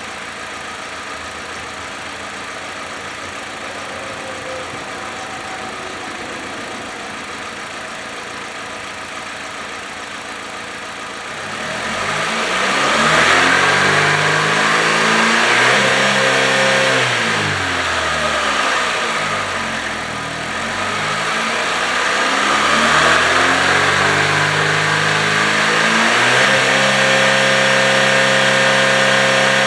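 2007 Chevrolet Malibu's 2.2 L four-cylinder engine idling steadily, then revved up a little over a third of the way in and held, let back down, and revved up and held again to near the end.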